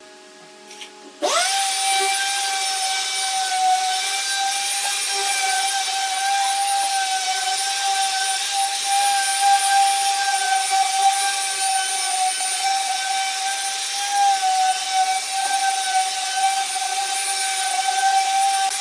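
An electric power tool switched on about a second in, its motor spinning up quickly to a steady high whine and running on at constant speed.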